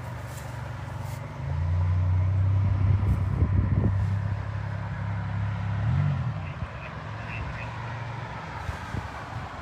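Road traffic: a vehicle engine hum that grows louder about one and a half seconds in as it passes close, shifts in pitch around six seconds in, then eases off.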